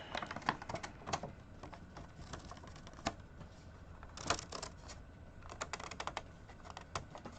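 Irregular light clicks and crinkles of plastic being handled: a HeroClix booster pack being opened and its small plastic figures taken out.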